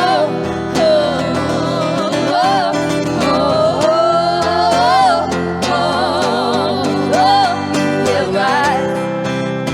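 Live song: acoustic guitar chords under a wordless sung melody, with gliding notes and vibrato.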